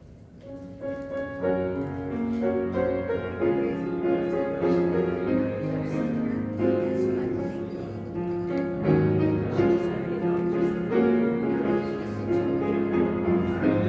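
Piano or keyboard postlude playing sustained chords, starting softly about half a second in and growing louder.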